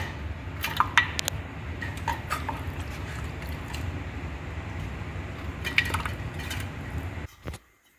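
A metal spoon clinking and scraping against a pot as chicken pieces in thick gravy are spooned in, with a few wet squishes, over a steady low hum. The sound cuts off abruptly near the end.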